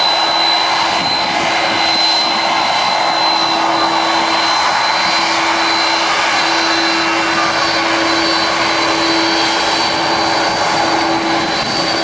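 Jet airliner engines running loud and steady: a broad rush of engine noise with a high whine over it and a lower steady hum.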